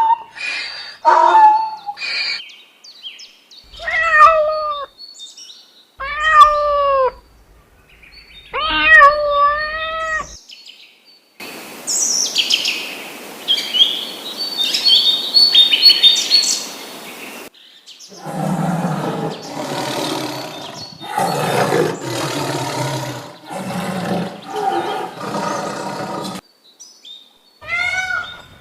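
A run of farm animal calls: several separate drawn-out calls that rise and fall in pitch, then birds chirping over a steady hiss for several seconds, then a series of lower calls with a wavering pulse, and more rising-and-falling calls near the end.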